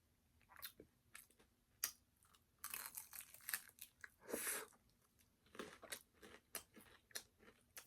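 Faint, close-miked eating sounds: crisp crunching bites and chewing of a fried ube pie, with scattered sharp mouth clicks and a couple of louder crunchy bites in the middle.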